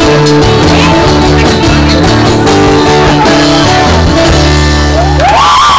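Acoustic guitar strumming out the end of a song, with held notes underneath. About five seconds in, the music stops and high sliding cries break in.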